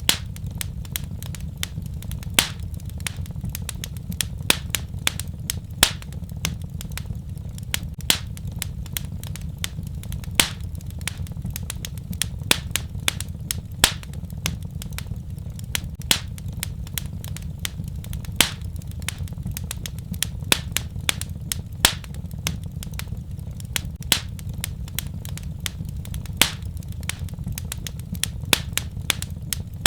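Wood fire crackling: irregular sharp pops and snaps of varying strength over a steady low rumble of the burning fire.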